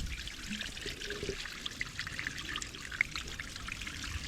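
Rusty, mostly-water coolant draining out of a tractor radiator through a loosened hose, a steady pouring trickle.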